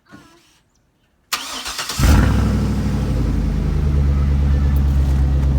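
2012 Chevy Silverado 1500's 6.2-litre V8 with a straight-piped exhaust (stock headers and catalytic converters, muffler removed) cranking on the starter about a second in, catching half a second later and settling into a steady idle.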